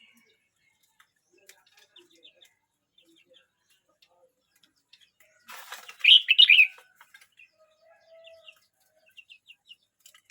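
Red-whiskered bulbul singing one short, loud warbled phrase of quick notes about six seconds in, just after a brief rustle. Faint scattered chirps come before and after it.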